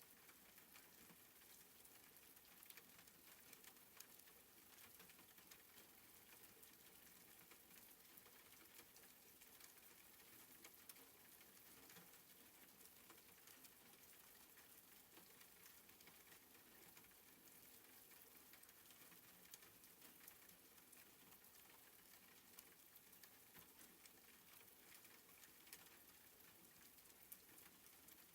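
Soft rain falling, heard faintly as a steady patter of many small drops.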